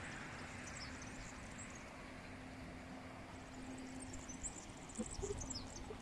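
Small birds chirping, faint and high-pitched, over a steady low drone that fades out after about four seconds. Near the end come a few knocks of footsteps on dry, stony ground.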